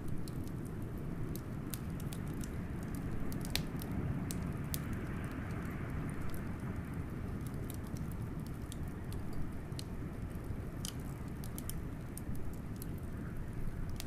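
Wood fire crackling with scattered sharp pops over a steady low rush of blizzard wind, which swells briefly about four seconds in.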